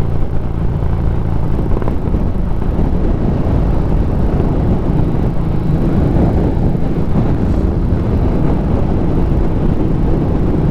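Harley-Davidson Street Rod 750 V-twin motorcycle on the move: a steady low rumble of wind on the microphone mixed with the engine, with no change in pace.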